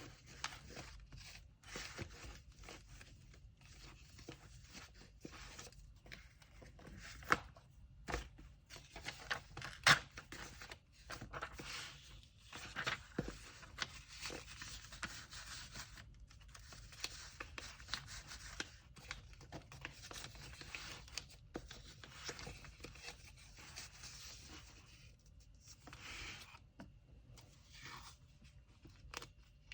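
Orders being packed by hand: kraft paper and tape rustling and being handled, with irregular sharp clicks and knocks, two louder knocks about a third of the way in.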